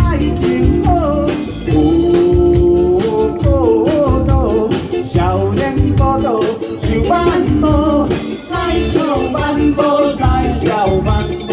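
Live band playing an upbeat song with drums, bass, electric guitar and keyboard under a sung melody, with a steady beat.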